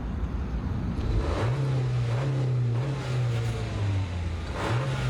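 An engine running steadily with a low drone that steps up in pitch about a second and a half in and again near the end, with two brief whooshes.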